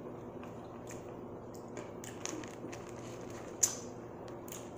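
Quiet eating sounds: chewing and small mouth clicks, with one sharper click about three and a half seconds in, over a faint steady room hum.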